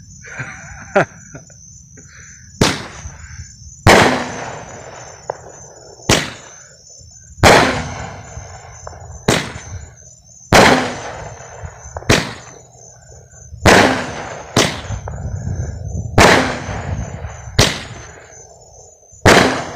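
Consumer fireworks cake firing shot after shot: about a dozen loud bangs, one every second and a half or so, each trailing off in a rumbling echo. Crickets chirp steadily underneath.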